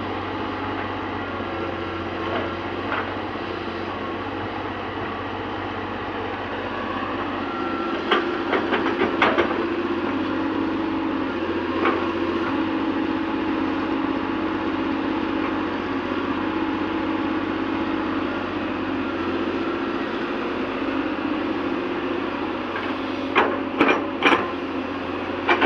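Excavator's diesel engine running steadily, with a handful of sharp knocks about a third of the way in and a quick cluster of knocks near the end.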